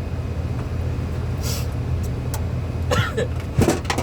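A steady low mechanical hum, with a short hiss about one and a half seconds in and a few sharp clicks and knocks near the end.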